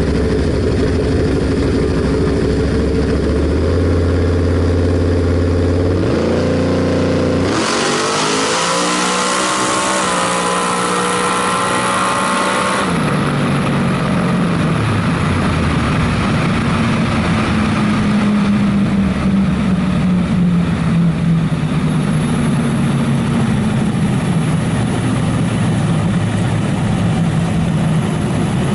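Drag car's engine running at the line, rising in pitch, then at full throttle for about five seconds with a shift partway through. It lifts off suddenly and winds down to a lower running note.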